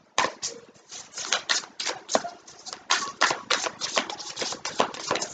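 A deck of tarot cards being shuffled by hand: a quick, irregular run of soft card clicks and slaps, several a second.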